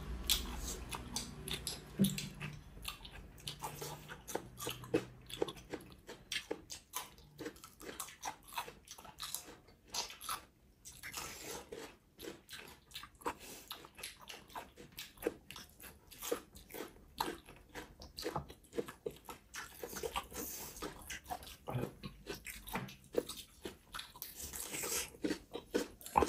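A person biting, crunching and chewing chicken leg close to the microphone: an irregular run of crisp clicks and wet smacks, several a second.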